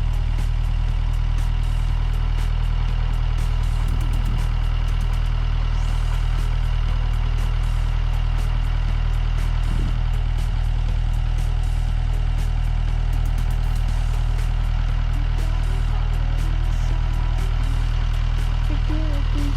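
Tractor diesel engine idling steadily with a low, even drone.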